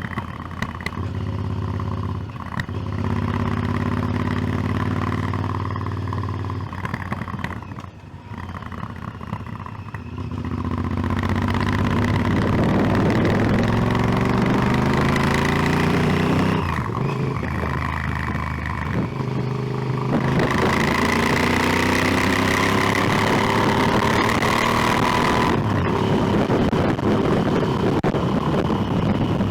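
Motorcycle engine running at steady revs, dipping briefly about eight seconds in, then accelerating from about ten seconds in, its pitch rising in sweeps broken by two gear changes.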